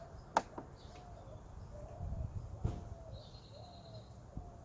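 A bird calling in the background, short low notes repeated about once a second, with two sharp clicks from the bolt and tool work on the engine.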